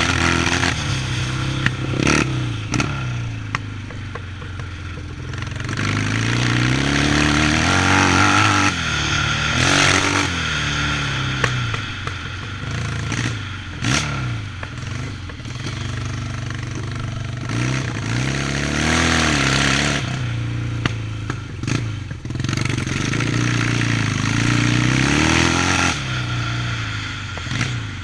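Yamaha 650 motorcycle engine revving up and dropping off again and again, as it does when ridden around a motocross track. A few sharp clattering knocks sound along the way.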